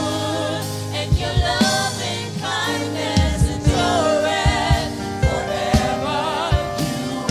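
Gospel worship song: several voices singing in harmony with wavering, held notes over a band with drums and sustained bass.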